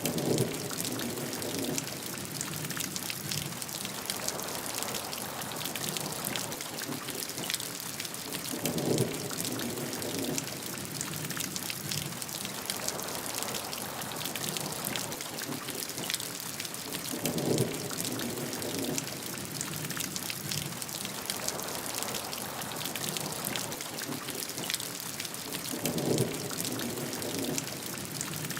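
Steady rain, with countless individual drops ticking on a surface. About every eight and a half seconds a louder, lower swell lasting a second or so rises over the rain, four times in all.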